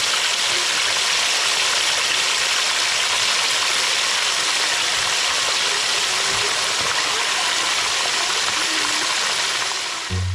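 Chicken wings deep-frying in hot oil: a loud, steady sizzle that cuts off suddenly near the end.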